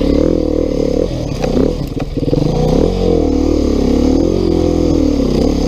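2019 Beta 390 RR-S single-cylinder four-stroke enduro engine running under load, its pitch rising and falling as the throttle is worked on tight trail, with a few brief knocks and clatter.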